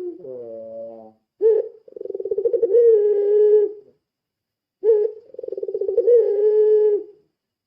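Puter pelung turtle dove cooing twice. Each call is a short rising note followed by a long rolling, pulsing coo of about two seconds. The tail of the previous call fades out in the first second.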